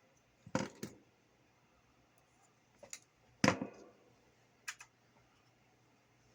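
A few sharp little clicks and taps of small tools and parts handled during soldering work on a radio, with the loudest tap about three and a half seconds in and a quick double click near the end.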